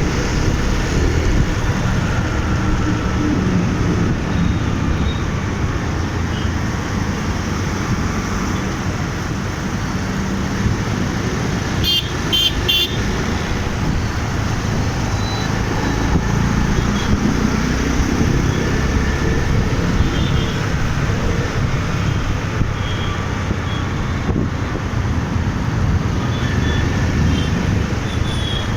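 City road traffic heard from a moving bike: a steady, loud rumble of wind and road noise, with vehicle horns honking briefly several times, including a quick cluster of high beeps about twelve seconds in.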